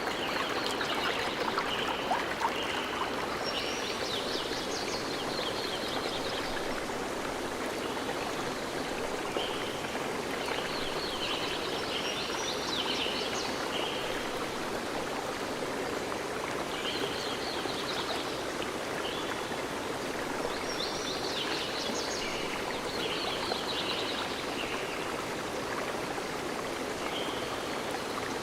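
Stream running steadily, with a songbird singing repeated phrases of quick high notes every few seconds over the water.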